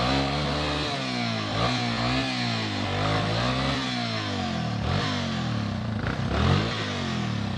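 Off-road motorcycle engine revving up and down over and over, its pitch rising and falling every second or so.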